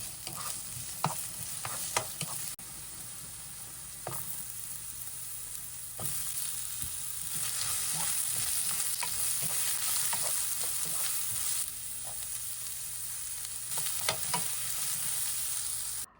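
Food sizzling and frying in a hot pan, with a utensil stirring and clicking against it, over several short cuts.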